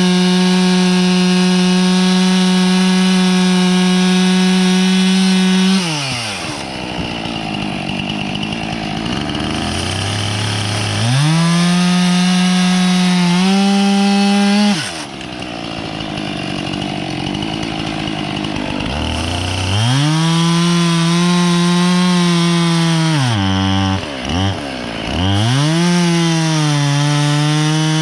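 Husqvarna two-stroke chainsaw cutting dry oak logs into firewood rounds: held at full throttle through each cut, with the pitch sagging as the chain bites. Between cuts the throttle is let off and the revs fall away; there are three bursts of cutting.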